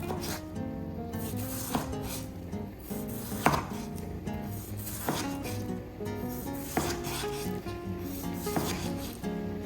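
Knife chopping on a wooden cutting board, with sharp cuts about every second and a half, over steady background music.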